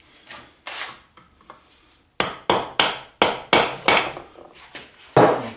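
A hammer tapping to drive a Woodruff key out of the crankshaft keyway of a Briggs & Stratton vertical-shaft engine. A few light knocks come first, then a run of about seven sharp taps, roughly three a second, from about two seconds in.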